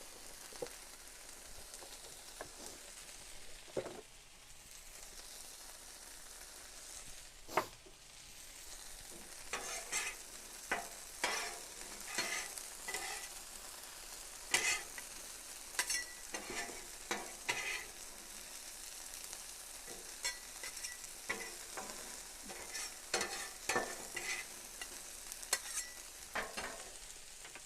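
Vegetables sizzling in oil on a flat-top griddle, with a spatula scraping and clacking against the griddle top in many short strokes through the second half.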